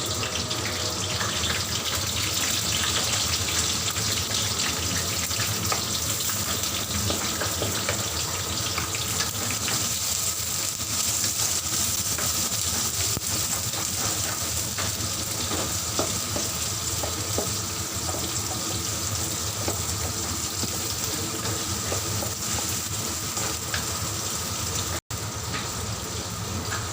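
Chopped onions, chili and tomato sizzling steadily in hot oil in the pan, a constant hiss with fine crackles.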